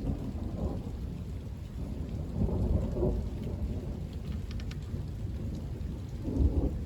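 Thunder rumbling continuously, with louder swells about two and a half seconds in and again near the end, over steady rain.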